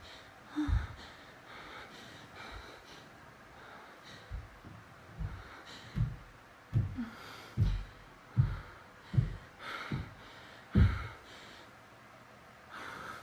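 A series of about ten dull, low thumps at uneven spacing, most of them roughly a second apart in the middle stretch, over faint breathing.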